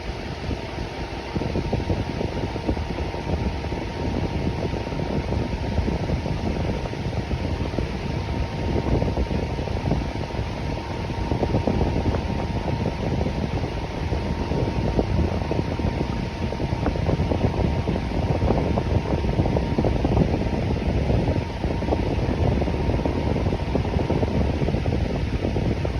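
Electric fan running steadily: a low, full rush of moving air with a faint steady hum just under 1 kHz.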